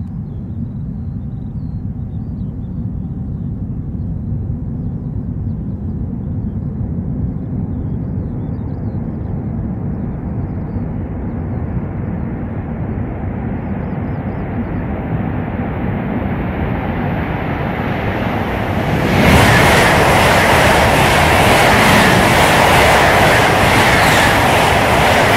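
ICE high-speed train coming through the tunnel, heard first as a low rumble that slowly grows louder. About 19 seconds in it bursts out of the portal and rushes past at speed: a sudden, loud, hissing rush of air and wheel noise.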